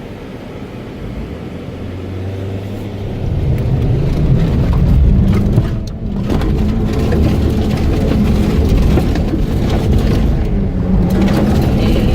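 A van's engine revving hard as it is driven in donuts, swelling louder about three seconds in and staying loud.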